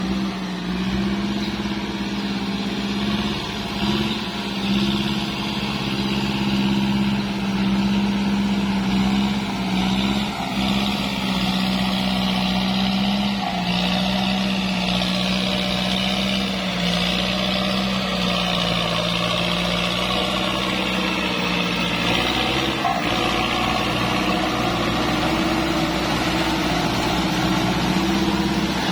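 Kubota tractor's diesel engine running steadily, a low even drone whose note shifts slightly a couple of times.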